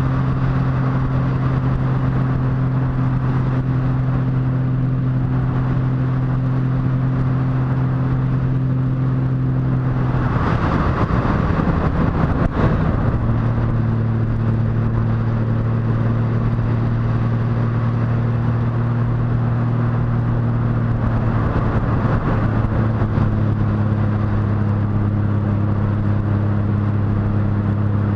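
Motorcycle engine running at a steady cruise. About ten seconds in the note breaks up for a couple of seconds, as in a gear change, then settles at a lower, steady pitch, dropping slightly again near the end.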